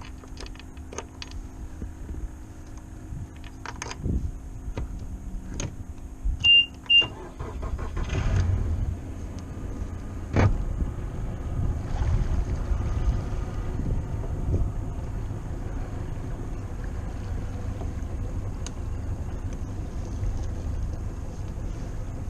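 Two short high beeps, then about eight seconds in a boat's motor starts and runs on with a steady low rumble. A few clicks and knocks come before the beeps.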